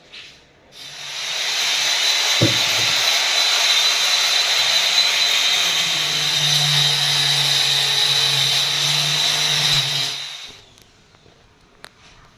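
A power tool running steadily for about nine seconds, with a thin high whine over a hissing rush; it starts about a second in and stops shortly before the end.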